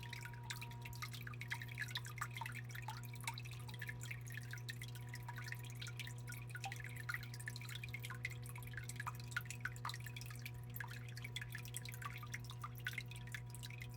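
Water from a small rock waterfall in a biotope tank, trickling and dripping into the pool in many small irregular plinks, over a steady low hum.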